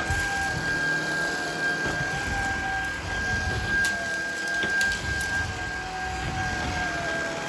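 Shark Vertex cordless stick vacuum running, a steady high whine over a lower hum that wavers, with a few sharp clicks as hard debris is sucked up.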